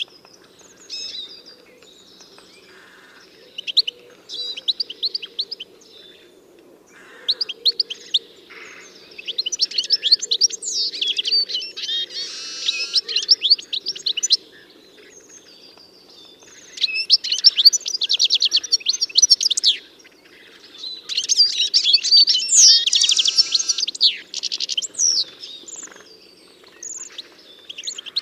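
Songbirds singing, with several bouts of rapid high chirps and trills that come and go, over a steady low hum.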